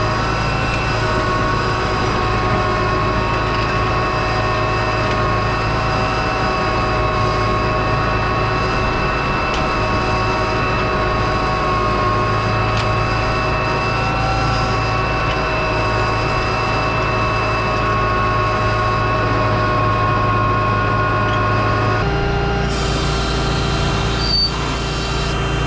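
Farm tractor engine running steadily under load while pulling a plow through the ground. The engine note changes abruptly near the end.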